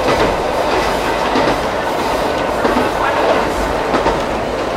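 Ichibata Electric Railway 2100 series electric train running at speed, heard from inside the passenger car: a steady rumble of wheels and running gear with irregular clicks from the wheels on the track.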